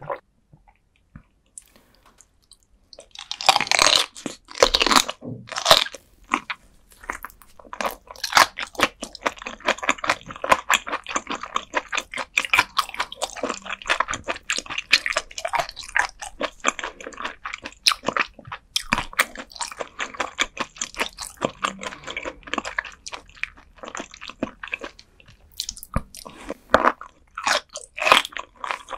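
Close-miked chewing of raw gizzard shad eaten bones and all, the small soft bones crunching in quick, dense succession. Quiet for about the first three seconds, then a loud first bite starts the crunching.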